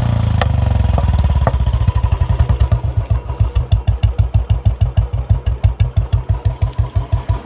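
Royal Enfield Bullet single-cylinder four-stroke engine idling. After about two seconds it settles into a slow, even thump of about six beats a second.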